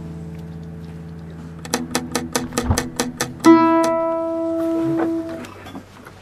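Plucked string instrument played: a low note dies away, then a quick run of a dozen or so sharp plucks or taps, then a loud plucked note about halfway through that rings on for a couple of seconds.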